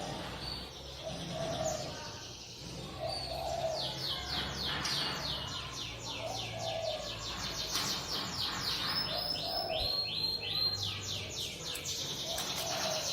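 Sunbird ('kolibri') singing a fast, high-pitched run of short descending chirps, several a second, starting a few seconds in with brief breaks. A low coo repeats in the background about every second and a half.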